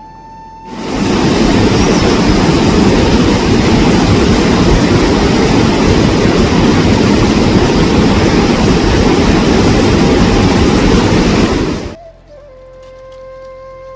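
Loud, steady rush of water, as from a heavy downpour or a swollen torrent. It starts abruptly just under a second in and cuts off abruptly near the end.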